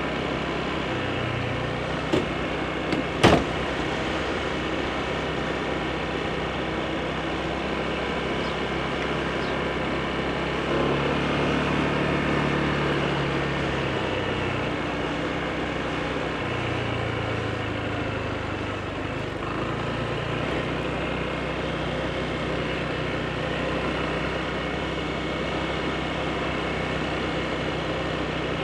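Honda PCX scooter's single-cylinder engine running while riding, under a steady rush of road and wind noise; the engine note shifts up for a few seconds in the middle. Two sharp clicks about two and three seconds in.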